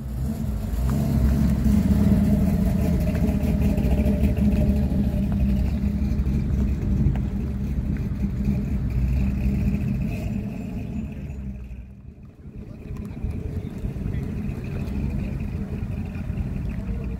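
Cars driving slowly past one after another, their engines rumbling at low speed. The sound is loud through the first ten seconds, fades to a brief lull about twelve seconds in, then rises again as the next car comes by.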